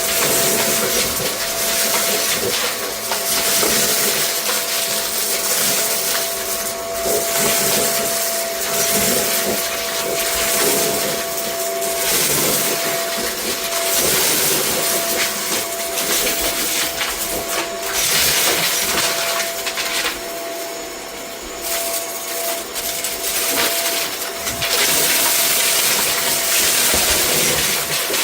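Vacuum cleaner running: a steady motor whine over rushing air that swells and dips every couple of seconds as it is pushed back and forth.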